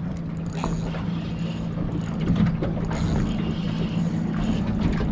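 Steady mechanical hum with light clicks as a fishing reel winds line in on a hooked snapper.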